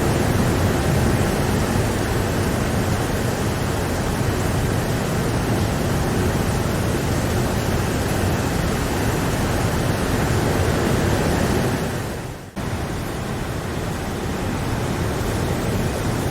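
Steady rain, an even, continuous hiss. A little before twelve seconds in it fades away for about a second, then cuts abruptly back in and carries on as before.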